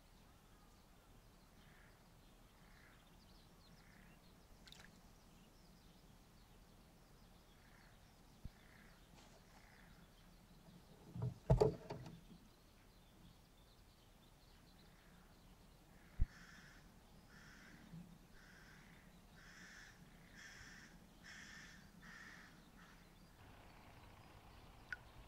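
Faint outdoor ambience with a bird calling in runs of short repeated calls, about one and a half calls a second. Water splashes in the fish tub about eleven seconds in, the loudest sound.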